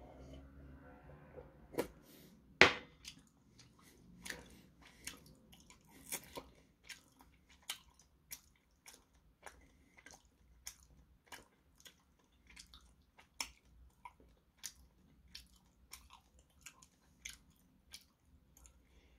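A person chewing food, with short moist mouth clicks coming roughly one to two times a second. One sharp knock about two and a half seconds in is the loudest sound.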